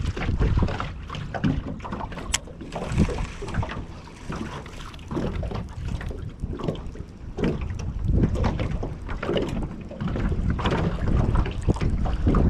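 Wind buffeting the microphone in gusts, with scattered small knocks and splashes from the boat and water, and one sharp click about two seconds in.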